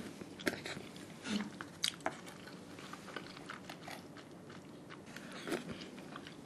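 A person eating up close: chewing and biting food, with scattered soft clicks and smacks.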